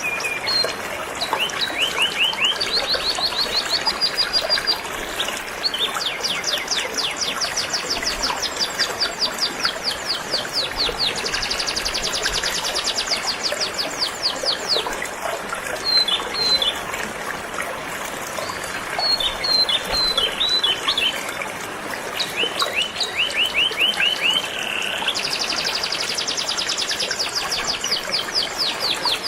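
Canary singing long runs of fast trills, one rapid repeated phrase after another, over the steady rush of flowing river water.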